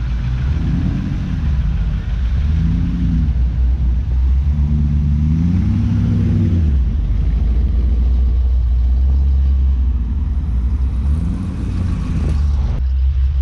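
Classic cars and hot rods driving past with a heavy, steady low exhaust rumble, the engines revving up and easing off several times as they pull out.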